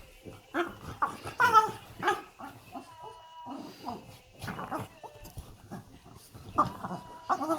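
Bulldog squeaking and whining in a string of short, high-pitched yips, several in quick succession early on and more spread out later.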